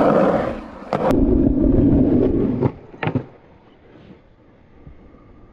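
Skateboard wheels rolling on concrete with a steady rumble, with two sharp clacks of the board at about 1 s and 3 s in. The rumble drops away after the second clack.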